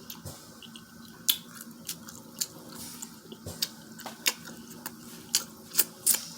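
Close-miked wet eating sounds: chewing and lip smacking on seafood boil, with irregular sharp, wet clicks.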